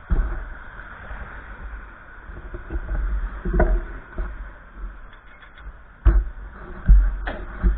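Gusty wind buffeting the microphone: a low rumble that swells and drops in gusts, the strongest about six and seven seconds in, with a few sharp knocks or rattles among them.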